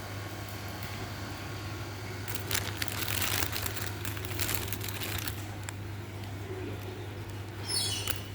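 Crinkling and rustling of something being handled, in irregular bursts, over a steady low hum. A brief high falling squeak comes near the end.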